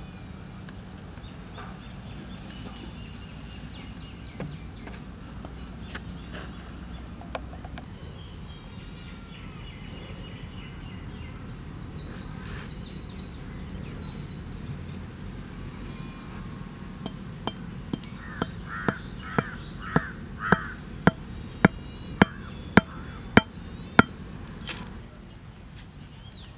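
A bird repeats short upward-hooked whistles every second or two over steady outdoor background noise. About two-thirds of the way in, a run of about a dozen sharp knocks starts, about two a second and growing louder.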